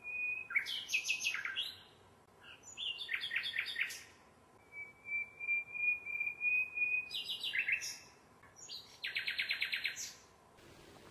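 A songbird singing: several phrases of rapid trilled chirps, with a long held whistle about midway and a fast trill near the end.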